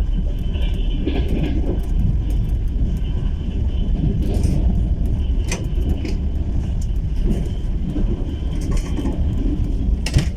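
Steady low rumble of a passenger train's carriage running along the rails, heard from inside the carriage, with a few sharp clicks, the loudest near the end.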